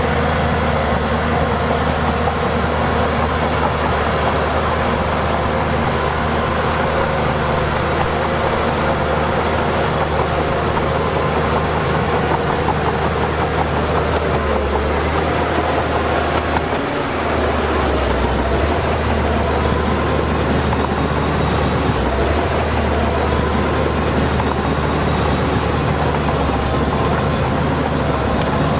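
Heavy diesel earthmoving machinery, bulldozer and dump trucks, running steadily under work, with a brief dip about two-thirds of the way through.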